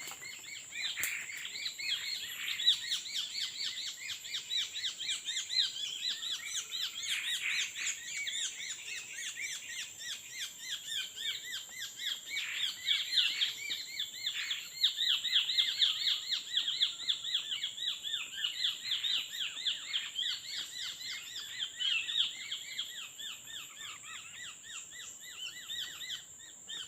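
Tepus babblers giving a fast, dense chatter of short chirps, several a second, swelling and fading. A steady faint high-pitched tone runs underneath.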